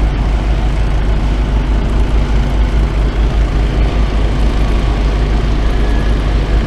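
Construction machinery engine running steadily, a loud low rumble with no change in pace.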